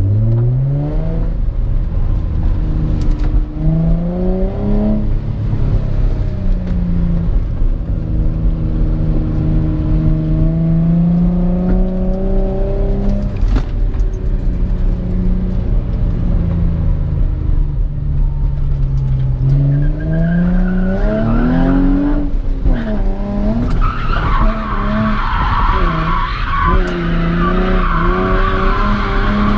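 Drift car's engine revving up and down as it is driven hard, its pitch climbing, holding and falling several times. About three-quarters of the way through, the tyres start squealing as the car slides into a drift, over the engine's rising and falling revs.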